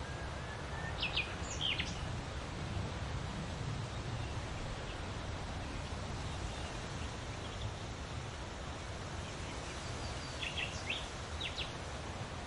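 Outdoor morning ambience: a steady background hiss and low rumble, with a few short, sharp bird chirps in a quick cluster about a second in and another cluster near the end.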